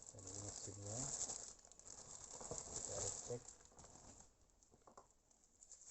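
Rustling and light rattling as a drill's accessories and their soft plastic case are handled.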